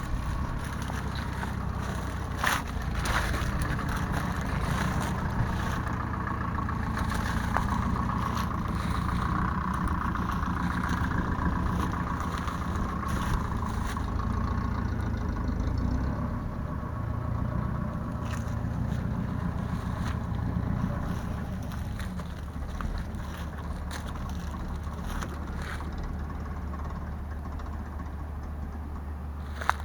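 New Holland TL100's 3.9-litre four-cylinder diesel engine running, settling into a steadier drone about two-thirds of the way through, with a few sharp clicks.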